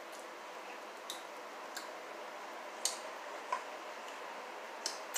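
A person chewing food: about half a dozen sharp, wet mouth clicks and smacks, irregularly spaced, over a steady background hiss.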